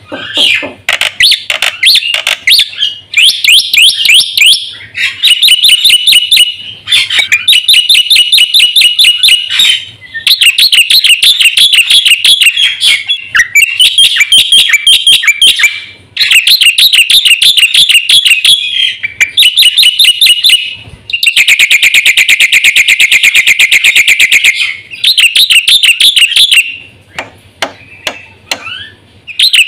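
Black-winged starling (jalak putih) singing loudly in bouts of rapid, repeated chattering notes. Each bout lasts one to three seconds, with short breaks between them. About two-thirds of the way through comes a longer, harsher, buzzing stretch of about four seconds.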